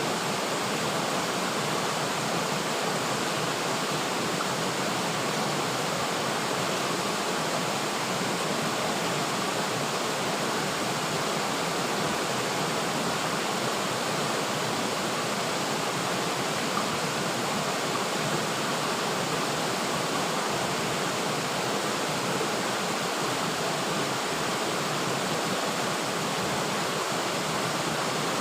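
River water flowing steadily, an even rushing with no breaks or separate splashes.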